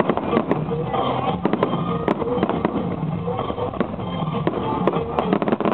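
Fireworks crackling and popping in quick, irregular cracks, with music playing over them.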